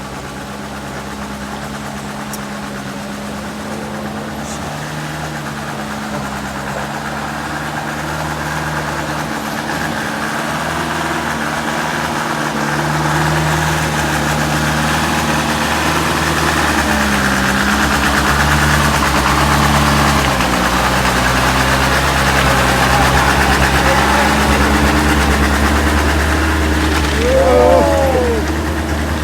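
A vehicle's engine running steadily at the hill climb and growing gradually louder, its pitch shifting now and then. Near the end there is a short, high, rising-and-falling pitched sound.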